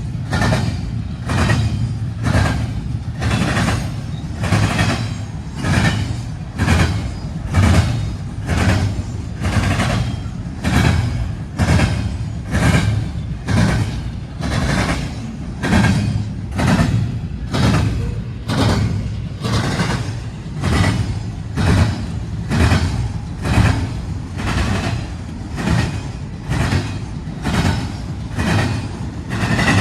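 Train rolling past, a steady low rumble with evenly spaced clacks of wheels crossing rail joints, a little more than one a second.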